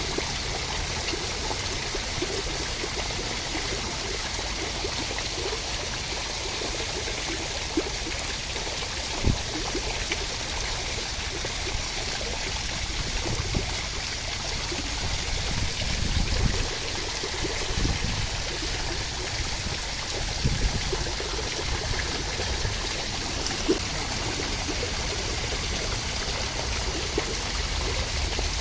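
Steady rain: an even rushing hiss of falling water, with a handful of short, louder ticks scattered through it.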